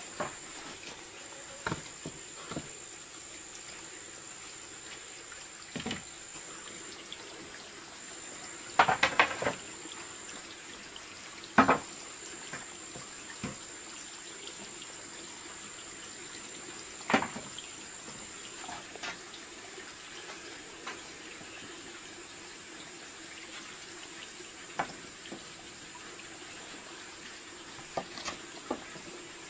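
Steady running water with scattered knocks and clatters, the loudest a short clatter about nine seconds in and a sharp knock near twelve seconds. A thin, steady high tone runs over it.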